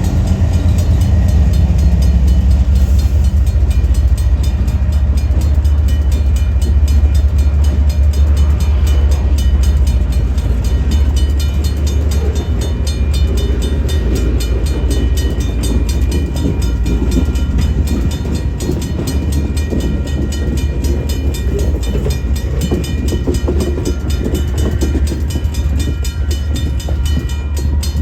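Freight train passing close by: a heavy, steady low rumble, turning to a rougher rolling clatter of cars from about halfway through.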